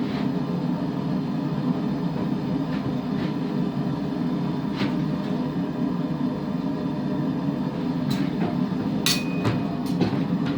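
Forge running with a steady low roar while the blade heats in the fire, with a few faint clicks and a sharper click about nine seconds in.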